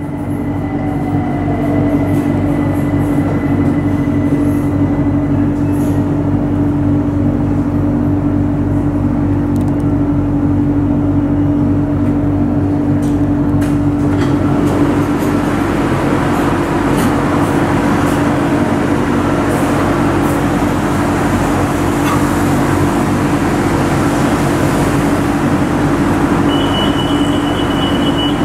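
Electric Skytrain car running along the elevated track, heard from inside: a steady motor hum with wheel-and-rail noise that grows louder about halfway through. A short high beep sounds near the end.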